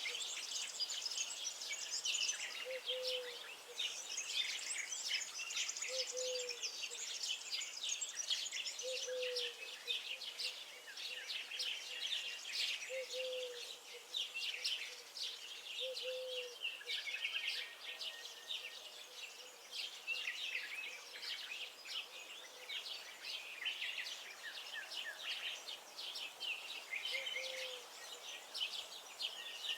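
Many small birds singing and chirping at once in a dense, overlapping chorus, with a short low call repeating about every three seconds beneath it.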